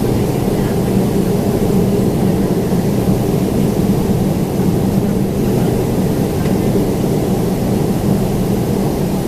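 Steady jet engine noise inside the cabin of a Boeing 767-400ER, its GE CF6-80C2 turbofans running at an even, low power: a constant low rumble with a steady hum.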